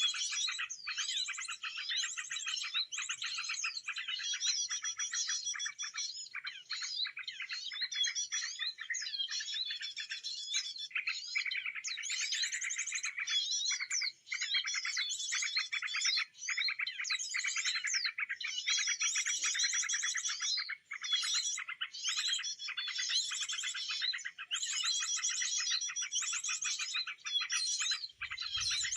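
Small songbirds chirping and trilling rapidly and almost without pause, in high, busy phrases with a few brief breaks.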